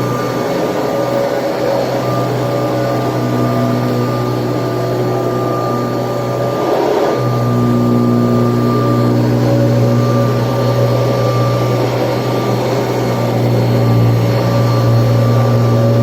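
Kirby Tradition upright vacuum cleaner running steadily with a constant motor hum and whine. About seven seconds in the sound briefly breaks and shifts, then settles back to the same steady drone.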